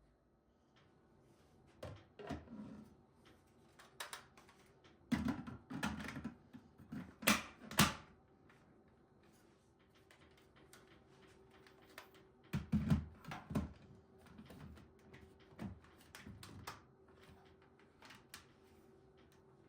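Household handling sounds: scattered clicks, taps and knocks of objects being picked up and set down, with two clusters of heavier knocks about five seconds in and again about twelve and a half seconds in, over a faint steady hum.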